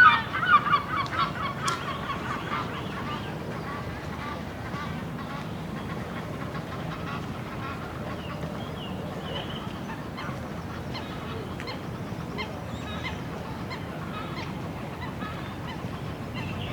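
Geese honking: a rapid run of loud calls in the first two seconds or so, then only a few faint calls over steady outdoor background noise.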